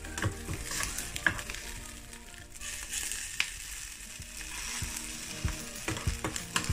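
Rice omelette patties sizzling as they shallow-fry in oil in a nonstick frying pan. A spatula clicks and scrapes against the pan now and then as they are pressed and turned.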